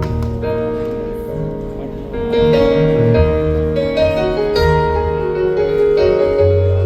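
Piano or keyboard playing slow, sustained chords that change about every second.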